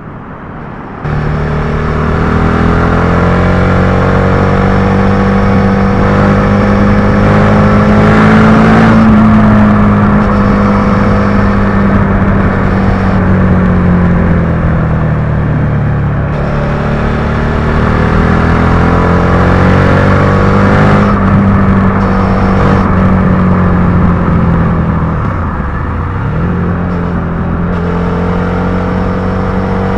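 Suzuki SV650's 90-degree V-twin engine running under way, its pitch climbing and falling slowly as the throttle is worked through corners. It gets much louder about a second in, and its pitch drops sharply and comes back up once near the end.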